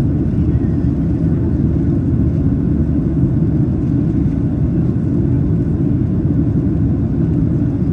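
Steady low cabin roar of a Boeing 737-800 climbing after takeoff: its CFM56-7B turbofan engines and the airflow heard from inside the passenger cabin.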